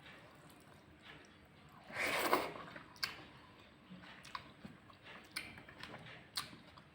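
A person eating rice with roasted tomato mash at close range: chewing with small wet clicks and smacks, and one louder mouth sound about two seconds in.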